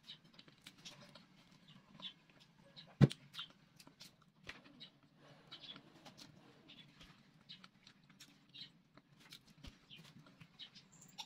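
Mouth sounds of someone chewing boiled cassava: small clicks and smacks, with one sharper click about three seconds in.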